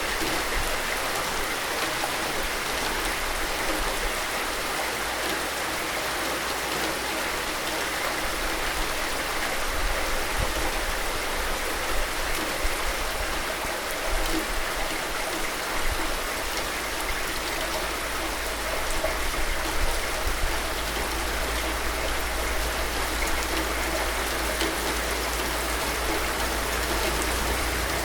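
Steady rain falling, an even hiss with a low rumble underneath and a few brief louder spells.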